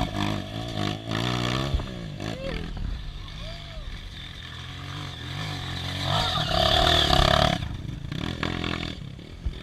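Off-road vehicle engine revving hard, its pitch rising and falling, with a louder burst of throttle about six seconds in.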